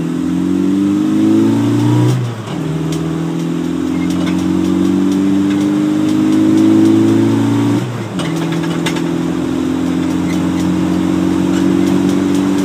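Truck engine pulling hard, its pitch climbing and then dropping sharply twice, about two seconds in and again about eight seconds in, like shifts up through the gears, then running steadily.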